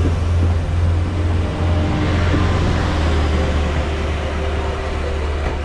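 A train running, with a steady low drone and no clear beat.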